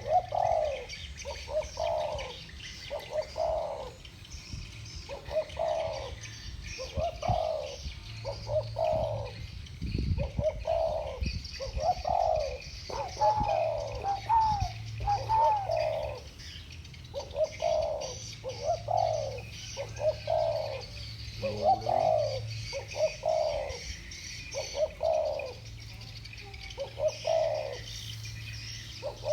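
Two spotted doves cooing back and forth in the deep 'thổ bầu' voice, repeating their coo phrase about once a second, with the calls overlapping near the middle. Fainter high chirping runs underneath.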